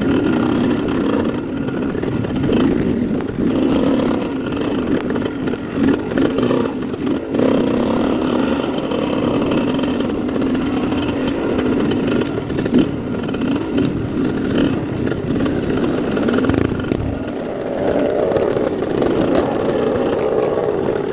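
Dirt bike engine running continuously, its revs rising and falling as it is ridden.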